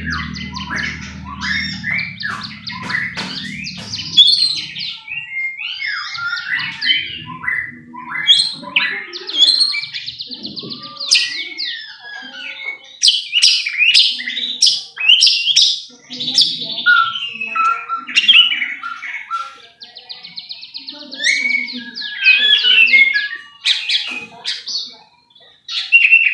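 White-rumped shama (murai batu) singing a fast, continuous, varied song of whistles, trills and sharp click-like notes. This is the lure song that keepers play to set off a caged shama. A low hum sits under the song for the first few seconds.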